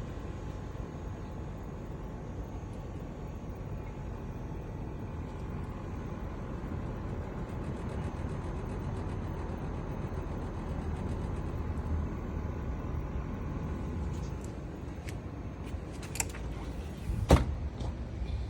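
Steady low rumble of distant road traffic, with a few small clicks near the end and one sharp click about a second before the end.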